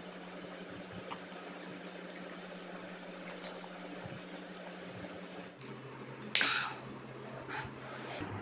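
Faint mouth sounds of a man chewing a mouthful of panipuri, with scattered small clicks, then a short louder mouth sound about six and a half seconds in.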